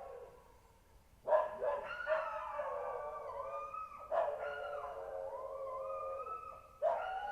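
Several animals howling together, their drawn-out calls overlapping and sliding in pitch, in three waves that begin about a second in, about four seconds in, and near the end.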